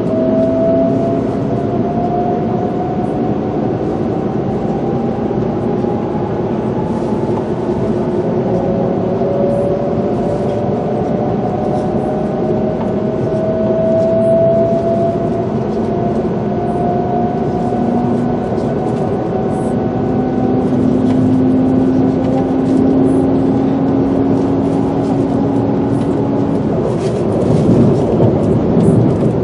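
Tohoku Shinkansen train accelerating, heard from inside the passenger cabin: the traction motors whine in slowly rising tones over steady running noise. A louder rush swells briefly near the end.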